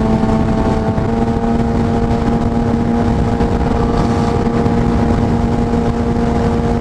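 Kawasaki Ninja ZX-6R inline-four engine running steadily at cruising speed under wind and road rush, its pitch stepping up slightly about a second in.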